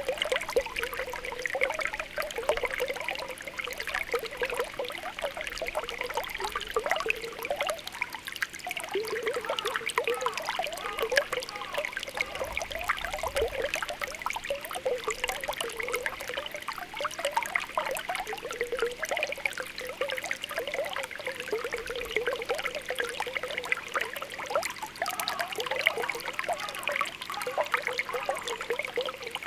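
Spring water welling up from the ground, bubbling and popping continuously with small quick gurgles over a steady trickle.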